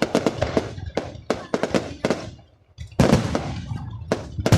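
Fireworks going off in a rapid string of sharp bangs and crackles, with a brief lull about two and a half seconds in before a loud bang restarts the volley.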